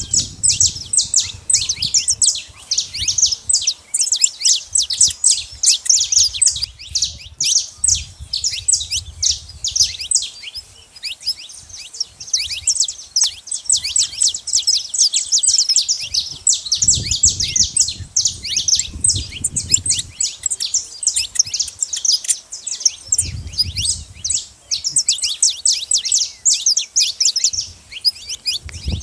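Saffron finches chattering at a seed feeding spot: a dense, unbroken stream of quick, high, overlapping chirps. A low rumble comes and goes underneath.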